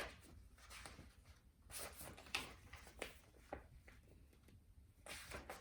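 Near silence in a small room, broken by a few faint, short rustles and soft ticks, the kind made by handling the paper pages of a picture book.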